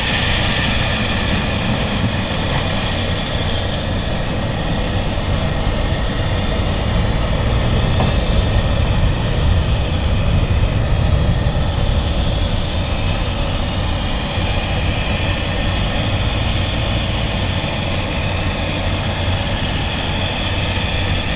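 Jet airliner engines running, a loud steady noise with a deep rumble that swells about halfway through.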